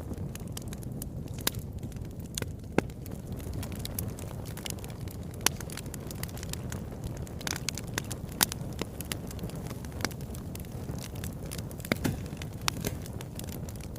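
Wood fire burning in a fireplace, with a steady low rumble and irregular sharp crackles and pops from the logs.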